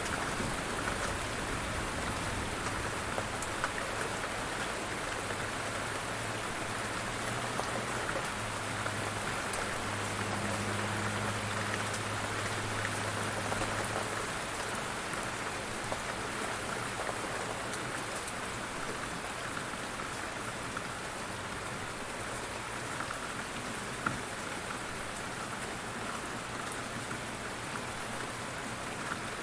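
Steady rain falling on a surface, with scattered faint drop ticks. A low hum sits underneath in the first half and fades out about halfway through.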